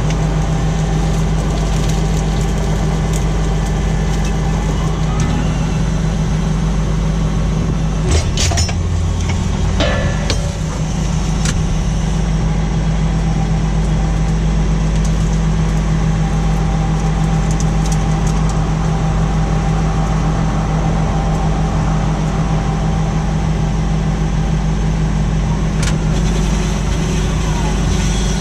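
Tractor engine running steadily while pulling a plough, with a few clanks about eight to ten seconds in.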